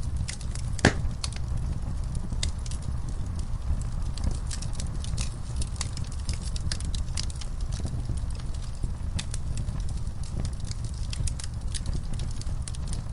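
Wood fire in a fireplace crackling, with a steady low rumble of flames under irregular sharp pops and snaps. The loudest pop comes about a second in.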